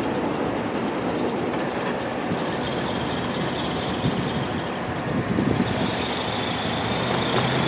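Rumble of a freight train's container cars moving away down the line just after clearing a grade crossing. A faint, quick, repeated ringing, typical of the crossing bell, goes on for about the first five seconds while the gate arms rise, then stops.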